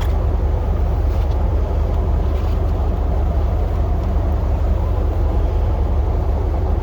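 Plow truck running with a steady low rumble.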